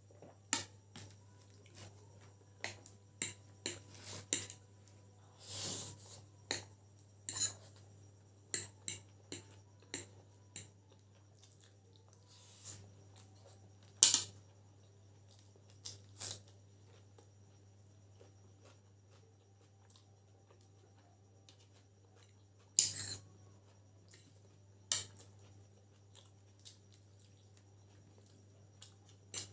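Eating utensil clinking and scraping against a plate of chicken chowmein, with some chewing; irregular clicks, busiest in the first ten seconds, with two louder clinks about 14 and 23 seconds in.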